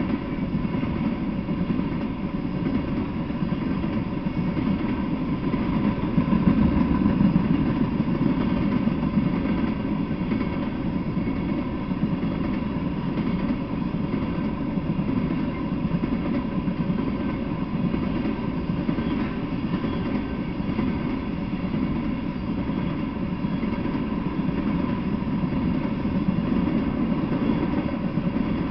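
Freight train of tank cars rolling slowly past, a steady rumble of wheels on the rails.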